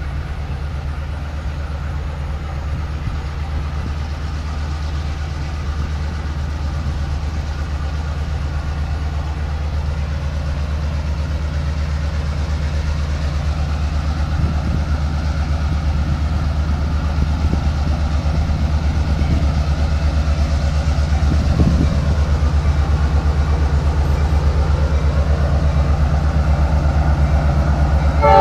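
Diesel locomotive engine running with a steady low rumble that grows gradually louder.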